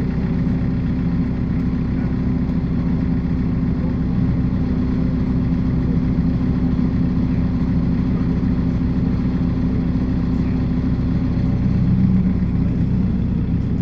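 Diesel engine idling steadily just after being started, a low, even running note with a slight swell near the end.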